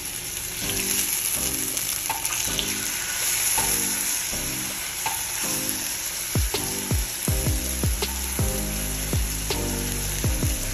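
Food sizzling as it fries in a pan, a steady high hiss, over background music whose deep bass-drum beat comes in about six seconds in.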